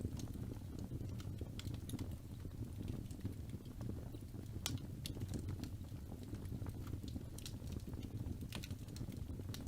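Wood fire in a fireplace burning, with a steady low rumble and irregular crackles and pops, a few sharper ones about five seconds in and near the end.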